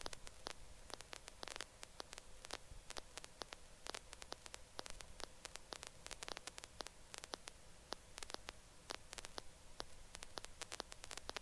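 Faint static on a helicopter intercom or radio line with no one talking: a low hiss with irregular crackling clicks and a faint steady hum.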